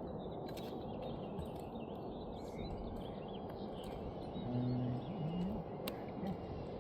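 Steady low outdoor rumble with faint bird chirps. About four and a half seconds in comes a short low hum that ends in a rising glide, followed by two sharp clicks.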